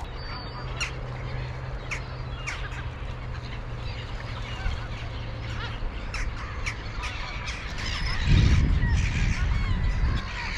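A flock of waterbirds calling, with many short overlapping calls that grow busier in the last few seconds. A loud low rumble comes in about eight seconds in.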